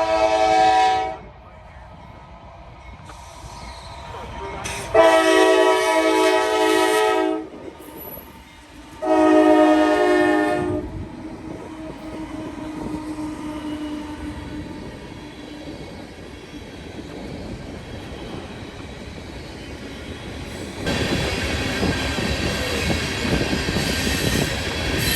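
Norfolk Southern freight locomotive sounding its horn three times, a short blast followed by two longer ones. The train then rumbles closer and, from about three-quarters of the way in, rolls past with louder rail and wheel noise.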